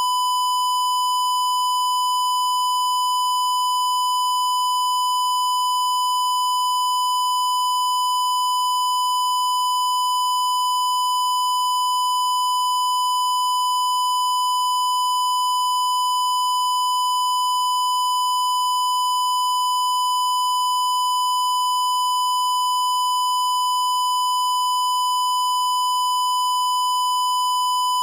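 A single steady, high-pitched electronic test tone held without a break or change in pitch, with a slightly buzzy edge from its overtones.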